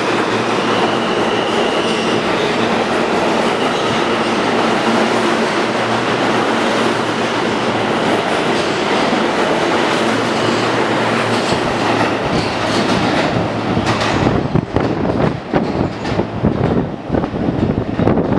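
R160 subway train running through the station, a loud steady rumble and hiss of wheels and motors on the rails. About fourteen seconds in the hiss fades and the wheels click over the rail joints in a clickety-clack.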